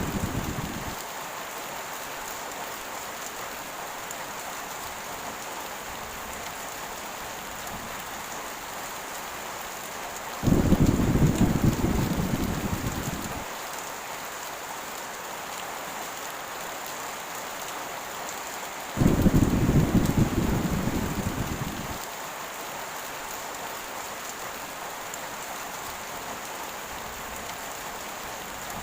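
Heavy rain falling steadily, with thunder rumbling twice, about ten and nineteen seconds in. Each rumble starts suddenly and dies away over about three seconds, and the tail of an earlier rumble fades out at the very start.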